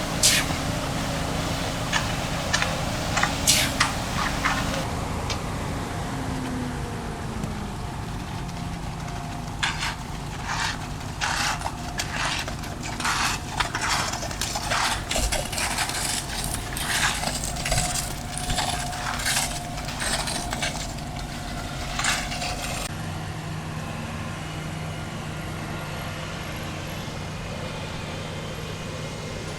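An engine running steadily, with a series of short scrapes, knocks and clatters over it, thickest through the middle of the stretch.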